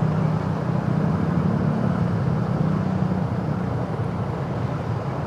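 Motorcycle engine running steadily while riding, heard from the rider's position along with wind and road noise.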